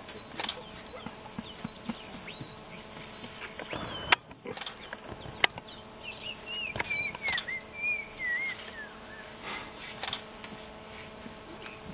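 A bird calling in a string of wavering, warbling chirps, mainly in the second half, over a faint steady hum, with scattered sharp clicks and knocks, the loudest a little before halfway.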